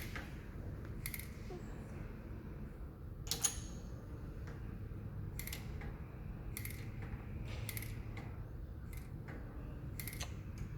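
Light metallic clicks and taps, about eight spread out, with a sharper one about three and a half seconds in, over a steady low hum.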